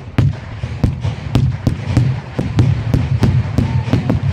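Fireworks display: a fast, irregular string of sharp bangs from bursting shells, about three or four a second, over a low rumble.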